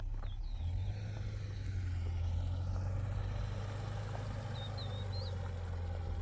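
Engine running steadily, a low hum that swells slightly about half a second in. Faint high chirps come twice over it.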